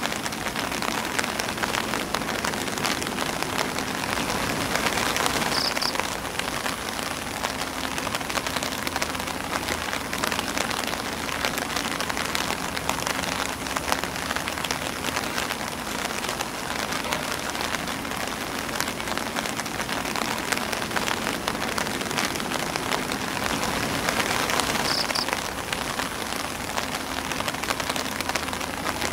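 Steady rain falling on an umbrella and on grass leaves: a dense, even spatter of drops.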